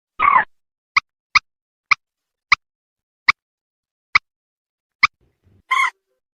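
Common moorhen (mandar batu) calling: a short harsh call, then a run of sharp single 'kik' notes that come further apart, and another harsh call near the end.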